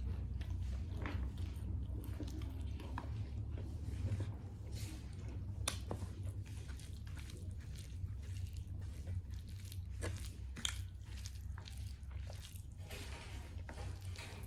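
A person chewing and crunching food close to the microphone, with irregular wet clicks and crackles of the mouth and food, over a steady low hum.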